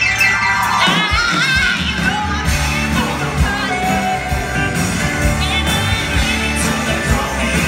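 Live country-rock band playing with a lead singer: sung vocals over drums, bass and guitar, with a steady beat.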